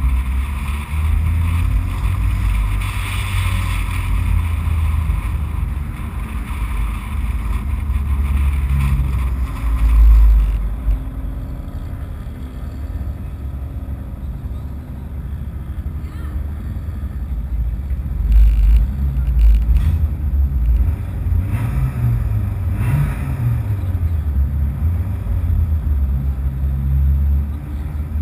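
Race car's engine running slowly and idling: a steady low rumble with a few louder surges, one about ten seconds in and a couple more past the middle.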